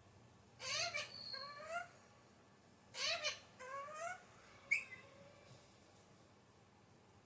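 Alexandrine parakeet calling: two bouts of loud squawks about two seconds apart, each a pair of notes that rise and fall in pitch, then one short sharp chirp.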